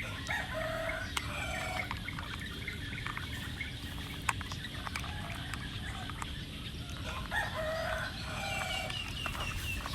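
Chickens clucking and calling, in two bouts about seven seconds apart, over a steady low background noise; a run of quick high chirps near the end.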